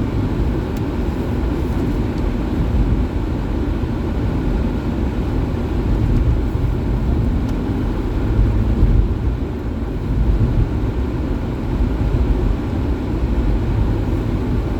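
Steady road and engine noise inside the cabin of a small car being driven.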